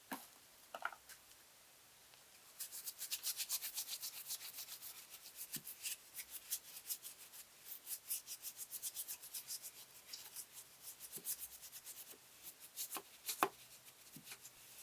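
A brush scrubbing a car's engine-bay surfaces in quick back-and-forth strokes, about five a second, starting about two and a half seconds in after a few light clicks.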